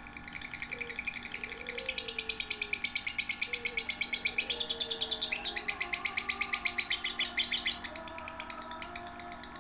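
Lovebird singing in a long, fast, continuous run of high chirps, loudest through the middle of the stretch, with lower sliding tones underneath.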